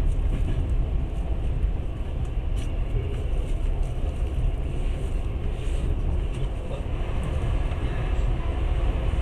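Steady low rumble of a moving passenger train, heard from inside the carriage at the window.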